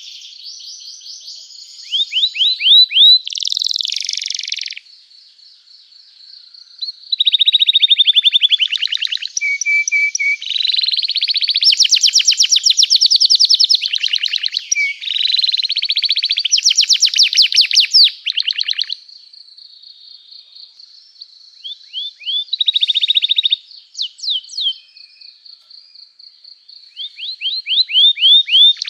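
Domestic canary in full song: phrases of a few seconds made of fast rolling trills and rapid repeated chirps, high-pitched, broken by short pauses between phrases.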